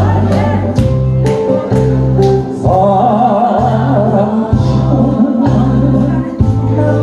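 A male singer singing a song over an accompaniment with a steady drum beat and a bass line.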